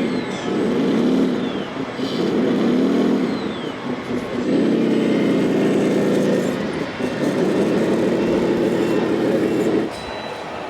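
Scale RC truck's engine sound module playing a simulated truck diesel, revving up and falling back twice, then running steadily before cutting off suddenly near the end.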